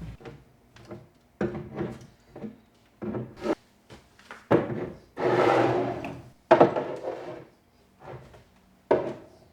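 Kitchen drawers and containers being handled while tidying: a run of separate knocks and clunks, with a longer slide about five seconds in and another about a second later.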